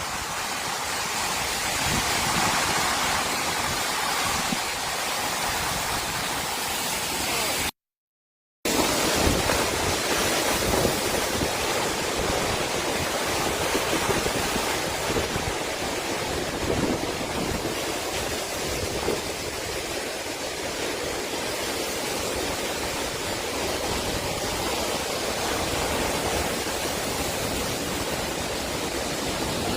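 Strong thunderstorm wind blowing steadily, a dense rushing noise. It cuts out to silence for about a second around eight seconds in, then carries on.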